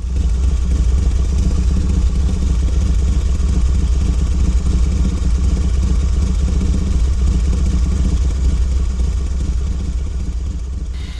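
A steady, loud engine-like mechanical rumble that fades out near the end.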